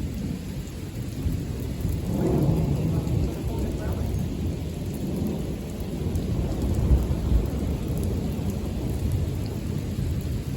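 Thunder rumbling over steady heavy rain during a severe thunderstorm, the rumble swelling about two seconds in and again near the middle.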